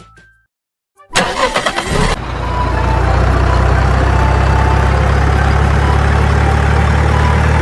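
After a brief silence, a truck engine cranks and catches about a second in, then settles into a steady idle.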